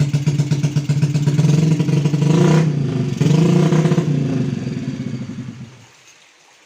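Motorcycle engine from a Yamaha Krypton two-stroke, in a Jupiter body and fitted with a Mio CDI, running with a rapid pulsing exhaust note. It is revved up twice, about two and three seconds in, then the sound dies away over about two seconds near the end.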